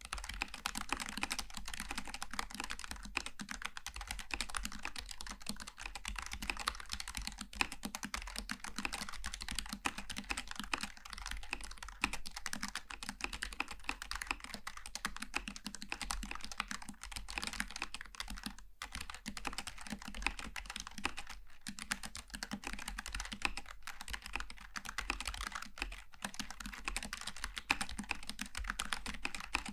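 Steady, fast typing on a Logitech G915 TKL low-profile mechanical keyboard with tactile switches: a dense run of key clicks that breaks off for a moment about two-thirds of the way through.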